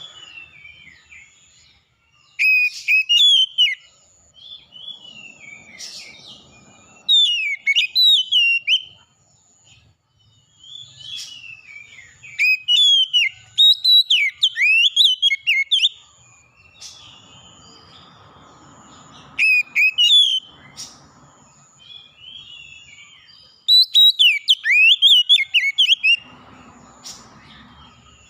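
Songbird singing loud, clear whistled phrases in bursts of one to five seconds separated by pauses, while another bird repeats a short high note about once a second in the background.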